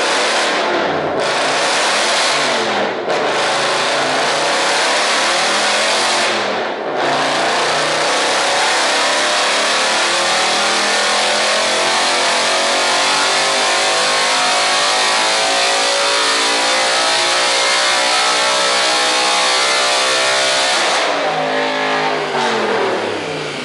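Car engine being run hard on a chassis dyno: revs climb with brief breaks for upshifts about one, three and seven seconds in, then rise steadily in one long pull. About twenty-one seconds in the throttle closes and the revs fall away.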